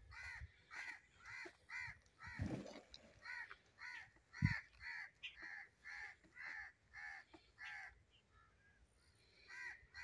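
A bird calling in a steady series of short, harsh caw-like notes, about two a second, which stops about eight seconds in. A dull thump about four and a half seconds in.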